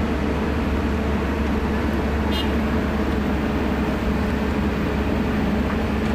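Heavy diesel engine running steadily, with one short high-pitched note about two and a half seconds in.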